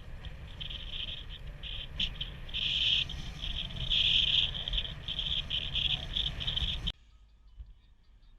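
Insects chirring in uneven, pulsing bursts over a low rumble; the sound cuts off abruptly about seven seconds in.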